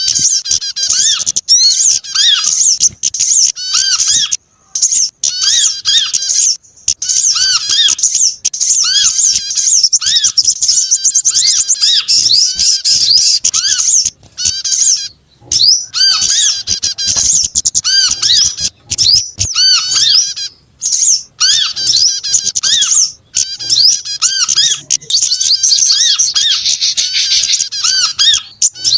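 A loud bird-lure recording of several small songbirds calling over one another: dense, rapid high twittering with a lower chip repeated about twice a second, broken by a few brief pauses.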